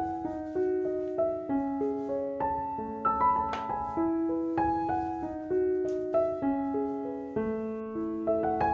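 Background piano music: a slow, gentle melody of single notes and chords, each struck and fading away.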